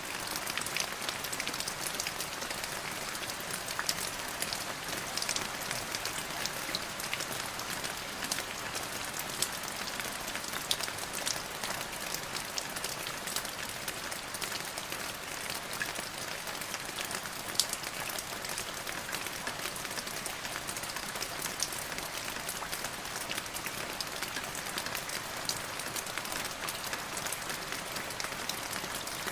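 Steady rain falling, a dense hiss with many separate drops ticking sharply over it.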